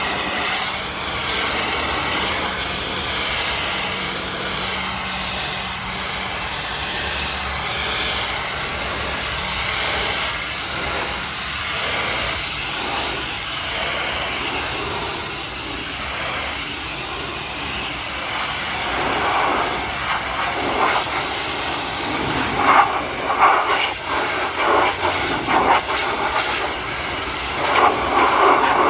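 High-pressure water jet spraying against a truck, a steady hiss; from about two-thirds of the way through the spray hits harder in uneven surges.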